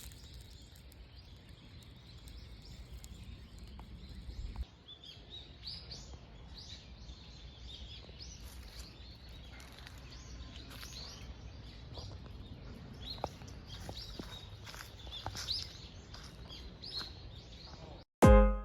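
Small birds chirping, many short high calls over a low outdoor background noise, the chirping busier from about four seconds in.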